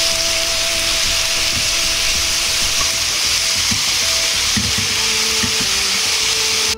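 Sliced pork belly and bitter melon sizzling in a frying pan over medium heat as they are stir-fried with chopsticks: a steady frying hiss.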